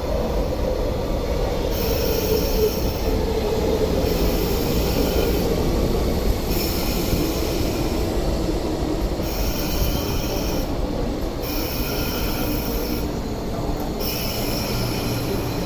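MTR East Rail Line electric train pulling into the platform, its wheels rumbling on the track, with a high-pitched squeal that comes and goes about every two seconds as the cars pass.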